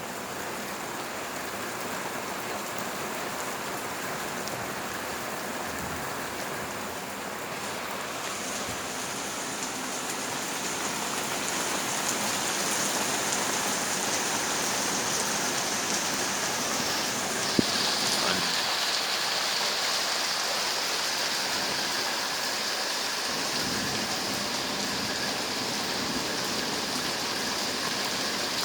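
Heavy rain pouring steadily during a thunderstorm, growing a little heavier about a third of the way in. One sharp click is heard about two-thirds of the way through.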